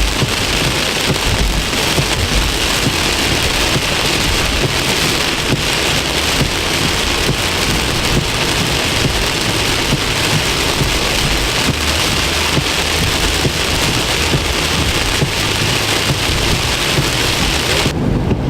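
Heavy rain pelting the vehicle in a steady, dense hiss, with a low rumble underneath. The rain hiss drops away suddenly near the end.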